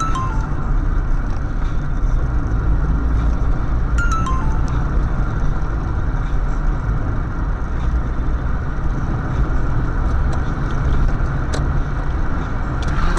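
Steady road and engine noise of a car driving, heard from inside the cabin. A short falling three-note beep sounds at the start and again about four seconds in.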